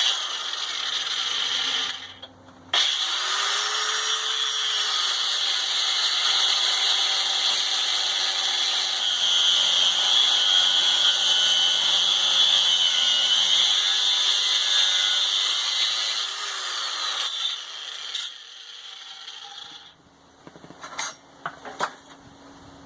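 Angle grinder working a steel Damascus billet, a loud steady high whine with grinding noise. It starts, cuts out briefly about two seconds in, restarts and runs for some fifteen seconds before spinning down.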